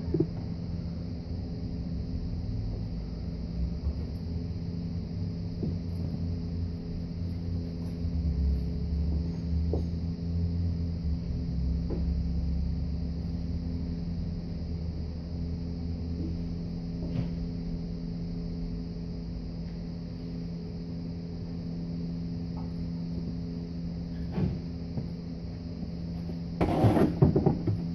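Dodge Avenger 2.4L four-cylinder engine idling with a steady hum and low rumble. Near the end, a short burst of louder noise.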